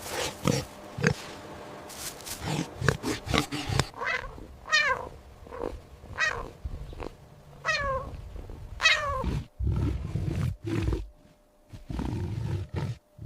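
Animal calls: short grunts, then several falling, wailing calls, then from about ten seconds in the low, rumbling growls and roars of a big cat.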